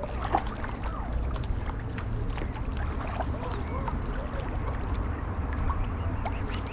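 Water noise from a stand-up paddleboard's paddle strokes, with wind rumbling on the microphone and scattered short chirping calls.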